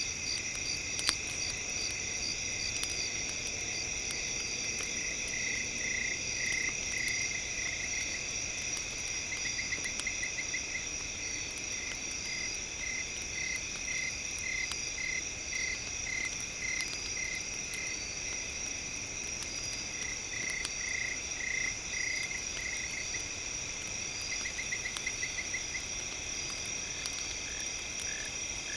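Night ambience of insects trilling steadily with a frog calling in runs of quick pulsed croaks that come and go. Small campfire crackles pop now and then, one a little sharper about a second in.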